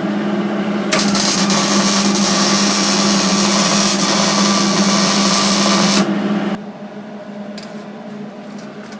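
A power tool running steadily, its motor humming, with a louder whirr from about a second in that stops about six seconds in, the hum winding down soon after.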